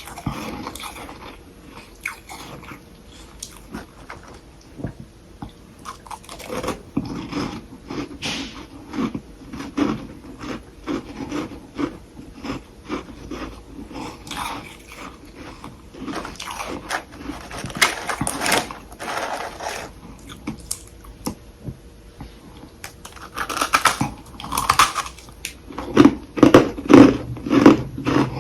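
Close-miked biting and chewing of soft humidifier frost sticks: a run of short, crisp crunches that grows louder and more closely packed in the last few seconds.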